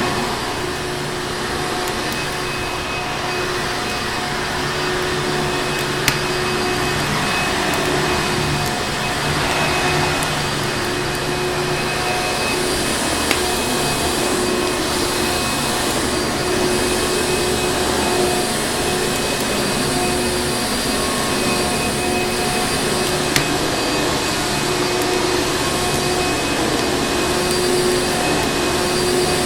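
Vacuum cleaner running steadily, a constant rush of air with a steady motor hum. A few sharp crackles of a wood fire sound now and then over it.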